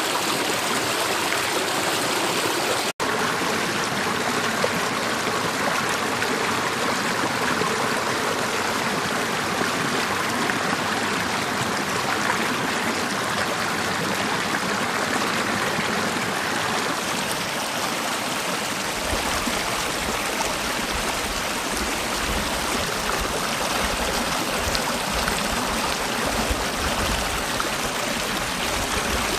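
Mountain valley stream rushing steadily over rocks. The sound drops out for an instant about three seconds in, and a low rumble joins it from about two-thirds of the way through.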